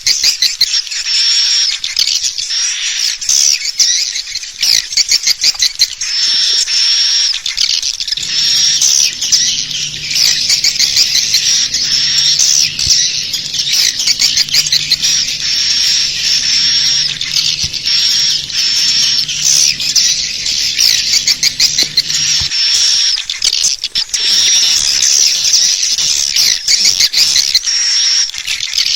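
Swiftlets twittering in a dense, unbroken chorus of rapid high chirps and clicks: a swiftlet lure call used to draw the birds into a nesting house. A faint low hum runs underneath from about a third of the way in until some eight seconds before the end.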